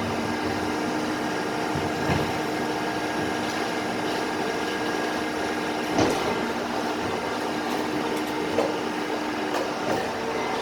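Garbage truck running steadily, a mechanical drone with a held hum, broken by a few short clunks, the loudest about six seconds in.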